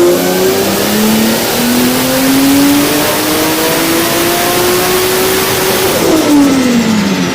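Toyota 2JZ straight-six drift-car engine pulling hard on a dyno: the revs climb steadily for about six seconds, then drop off sharply as the throttle is lifted near the end.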